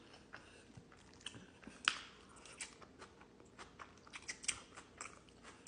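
A person chewing a mouthful of enchilada and rice close to the microphone: scattered wet mouth clicks and smacks, the sharpest about two seconds in.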